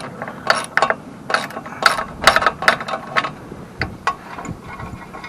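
Hand ratchet wrench clicking in short runs of sharp clicks, spaced unevenly, that thin out after about three seconds.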